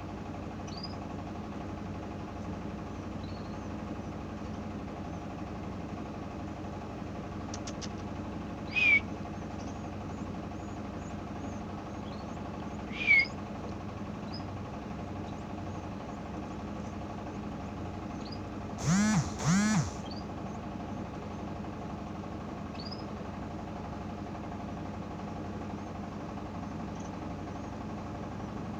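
Steady machine-like hum with scattered short bird chirps over it. Two louder chirps stand apart, and a little past the middle come two loud, drawn-out calls close together.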